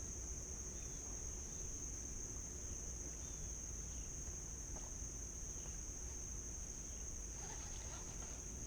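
Steady high-pitched buzzing chorus of insects, with a low steady rumble of wind or water underneath and a few faint bird chirps.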